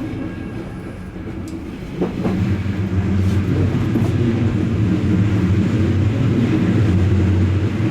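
Odakyu electric train running on the rails, a steady low rumble and hum heard from on board. About two seconds in there is a sharp knock, and the running noise grows louder and stays so.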